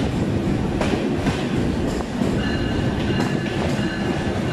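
Passenger train running, heard from aboard: a steady rumble with wheels clacking over rail joints, and now and then faint thin high squeals of steel wheels on the rails.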